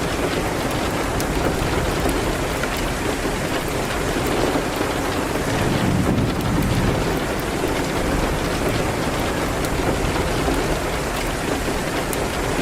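Steady rain, a dense even hiss with a low rumble beneath it and scattered small ticks.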